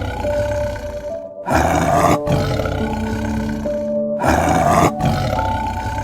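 Two loud animal roars, nearly three seconds apart, each loud for under a second and then fading, over background music with long held notes.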